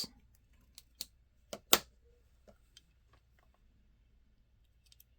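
A few short, sharp clicks and taps in the first two seconds, the loudest near the two-second mark, then quiet room tone: handling noise from a small die-cast model car and its plastic packaging.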